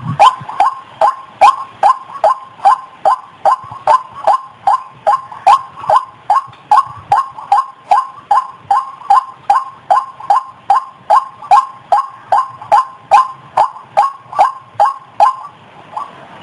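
White-breasted waterhen (ruak-ruak) calling: a monotonous run of short, loud notes repeated about two and a half times a second, with a brief break near the end.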